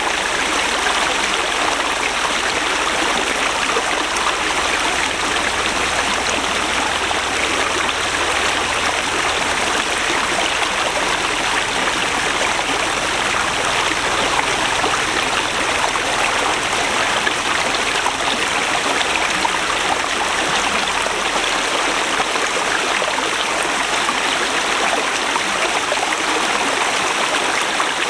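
Forest river rushing steadily over rocks, a constant full rush of flowing water.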